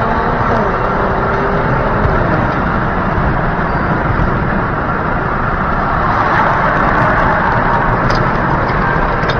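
Steady driving noise of a car on the road, engine and tyre rumble as picked up by a dashcam, with a faint shift in pitch in the first couple of seconds.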